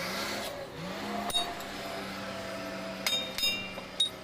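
Metal clinks, tools knocking against metal parts about four times, each leaving a short ring, over a steady low hum.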